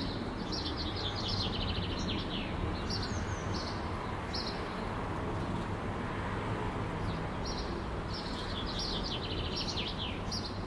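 Small songbirds singing in short, high chirping phrases, with a longer rapid song phrase twice. Underneath is a steady low rumble of city background noise.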